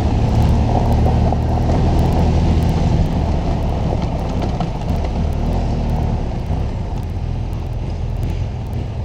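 Adventure motorcycle engine running steadily while riding a dirt road, with wind and tyre noise at the bike-mounted microphone. It eases off a little in the second half.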